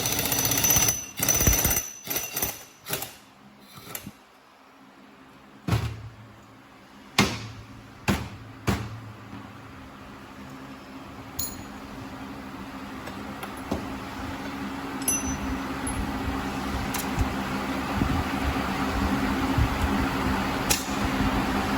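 A run of sharp knocks and clatter, then a few single knocks, as of tools and parts being handled. After that a steady low hum with a noisy hiss slowly grows louder.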